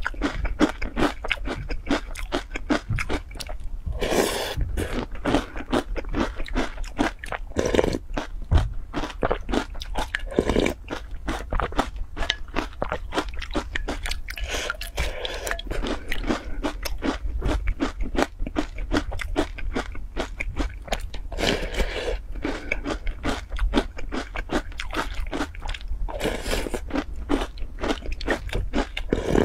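Close-up crunching and chewing of puffed corn crisps soaked in milk, a steady run of small crunches and mouth clicks, with a few longer slurps of milk from a spoon.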